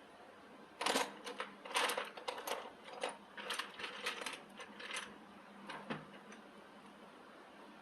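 Irregular metallic clinks and rattles, as of metal parts or tools being handled, in a run of several quick strikes from about a second in until about six seconds in, then stopping.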